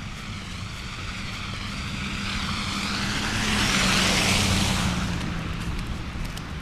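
A vehicle passing by, growing louder to a peak about four seconds in and then fading away, over a steady low hum.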